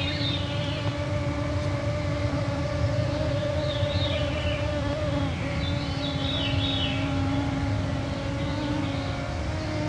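Mosquitoes whining close to the microphones: a steady, slightly wavering hum at a lower and a higher pitch over a low din. A songbird sings faint descending phrases twice in the background.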